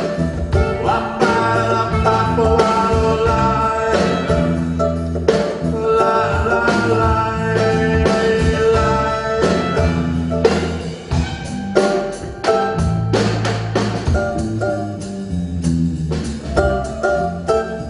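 Live folk band playing a song, with guitar, a low bass line and drum hits under sustained melody notes.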